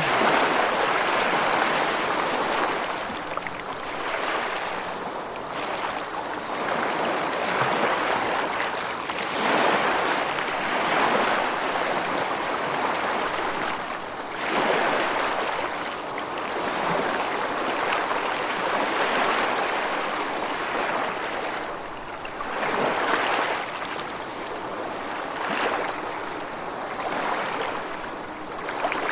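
Rushing water, a steady noisy wash that swells and eases every few seconds.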